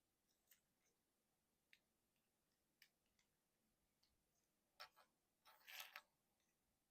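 Faint clicks of a Transformers Road Pig figure's plastic parts being moved and snapped into place by hand: a few single clicks, then a quick run of louder clicks and rattling about five seconds in.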